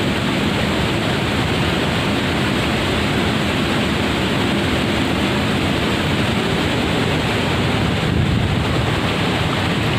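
Rushing water from a waterfall, a steady unbroken roar of noise.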